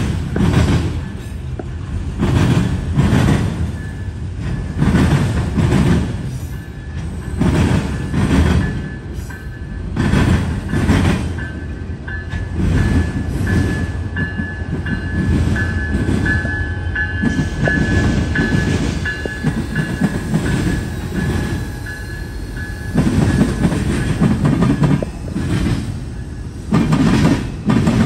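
Freight train of autorack cars rolling past, its wheels clacking over the rail joints in a rising-and-falling rhythm every second or two, with a thin, steady high squeal through the middle stretch. In the second half an Amtrak passenger train passes on the nearer track, adding a heavier rumble near the end.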